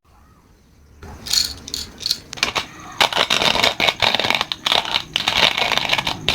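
Coffee beans being crushed in a grinder: a few scattered crackles about a second in, then dense gritty crunching for the last three seconds, which stops abruptly.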